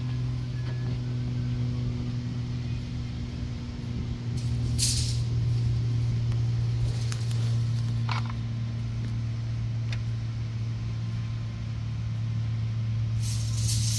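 Car engine idling under the open hood: a steady low hum that does not change. A few brief scratchy noises cut across it about 5 and 8 seconds in and near the end.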